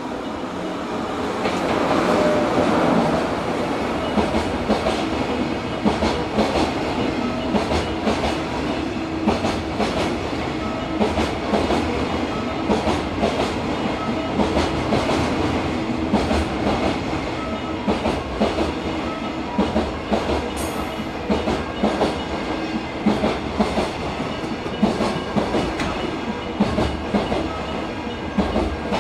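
A freight train hauled by an EF66 electric locomotive passing: the locomotive goes by loudly in the first few seconds, then a long string of container wagons rolls past, their wheels clacking over the rail joints in a quick, uneven rhythm.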